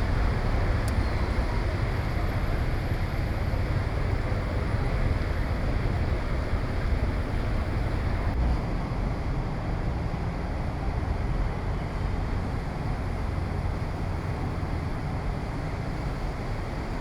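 Heavy rain and strong wind, a steady rushing noise with wind rumbling on the microphone.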